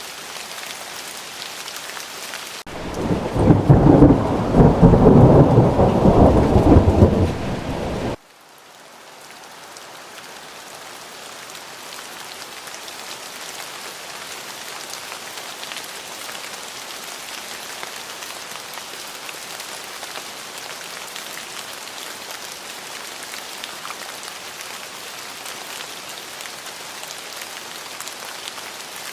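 Steady rain with a loud rolling thunder rumble that builds about three seconds in, lasts some five seconds and cuts off suddenly; the rain then returns at an even level.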